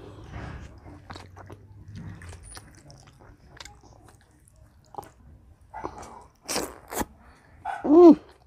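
A boy chewing mouthfuls of water-soaked rice: small wet chewing and lip clicks, with two sharp smacks past the middle. Near the end comes a short hummed "mmm" through closed lips, rising and falling in pitch, which is the loudest sound.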